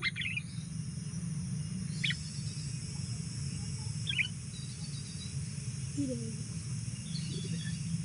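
A few short, quick bird chirps, one about two seconds in and another about four seconds in, each dropping in pitch, with a few fainter notes between them. A steady low hum runs underneath.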